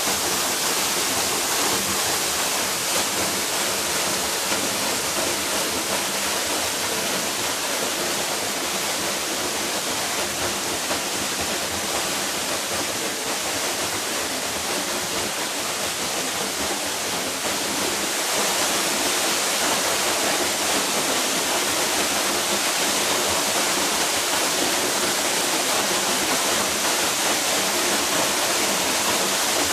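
Waterfall pouring: a steady rush of falling water, getting a little louder about two-thirds of the way in.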